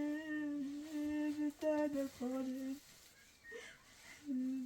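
A person humming long, held notes on a nearly unchanging pitch, in several phrases with a pause before a last note starts near the end.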